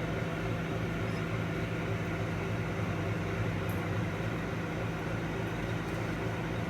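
A steady, even low hum with a faint hiss over it, like a running motor or fan; it does not change.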